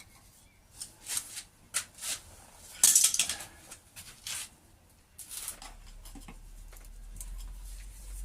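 Hand tools and metal engine parts being handled: a run of short scrapes and clinks, the loudest a rasping scrape about three seconds in, with a low rumble in the last few seconds.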